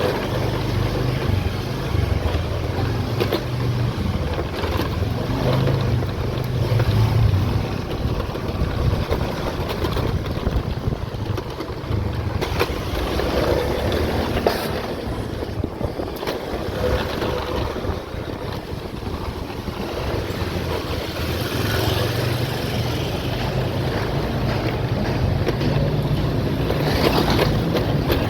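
A vehicle's engine running steadily while travelling, with wind buffeting the microphone.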